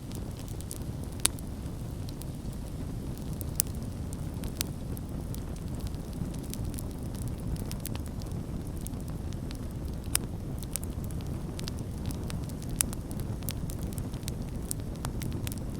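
Campfire burning, with a steady low rumble of flame and frequent irregular crackles and pops of burning wood, a few sharper pops standing out.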